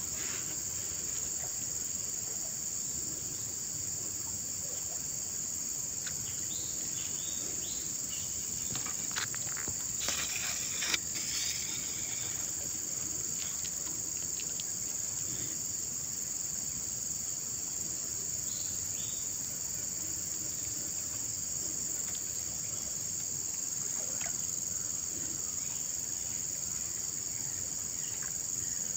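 Steady high-pitched chorus of insects. Around ten to eleven seconds in comes a short rustling noise and a single sharp knock.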